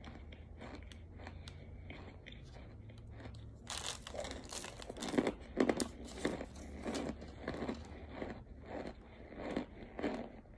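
Close-up crunchy chewing of compacted cornstarch chunks: soft clicks at first, a loud crisp crunch of a bite about four seconds in, then steady crunching chews about twice a second.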